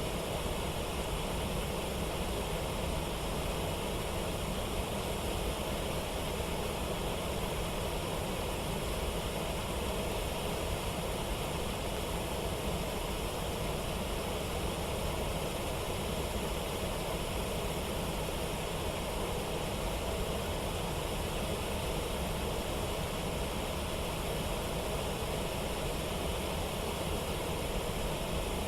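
Steady, unbroken rush of river water pouring over a waterfall and its rapids.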